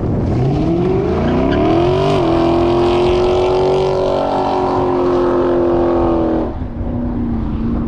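Car engine revving up over about two seconds, holding high revs steadily, then dropping to a lower, steady engine note about six and a half seconds in.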